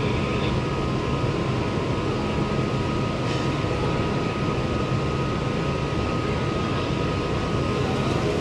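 Steady low machinery drone from a docked ro-ro passenger ferry running its engines and generators, with a faint steady high whine that stops near the end.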